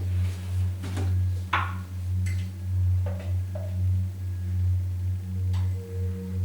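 A low steady hum that swells and fades, with scattered light clicks and knocks from handling things. Near the end a singing bowl starts ringing with one steady tone.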